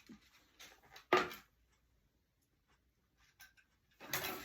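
Handling noises of craft items being moved on a table: a few light clicks and knocks, with one sharper clatter about a second in and another near the end, and a near-silent pause between them.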